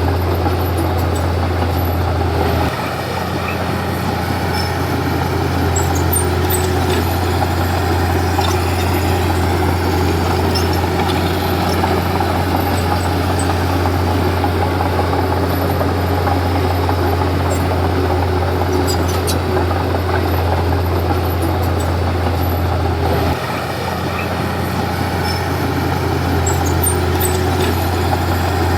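Komatsu D31P bulldozer's diesel engine running with a steady deep drone. The sound drops a little, briefly, about three seconds in and again about 23 seconds in.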